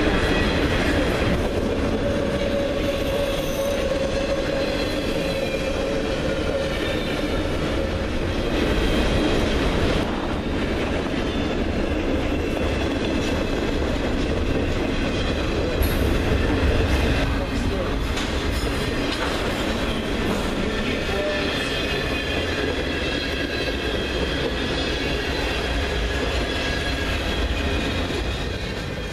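Double-stack intermodal freight train rolling past: a steady rumble and clatter of steel wheels on the rails, with a thin wheel squeal over it.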